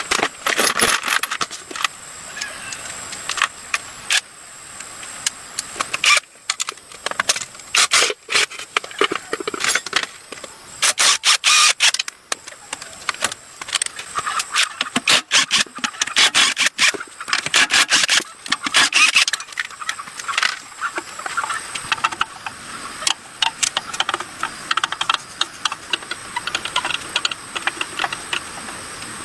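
Repeated metallic clicks, clinks and rattles of hand tools and small engine parts being handled, coming in quick clusters.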